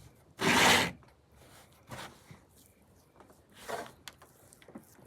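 Hands kneading and squishing a sticky baking-soda-and-dish-soap slime mixture: a loud rubbing squelch about half a second in, then softer squishes near two and four seconds.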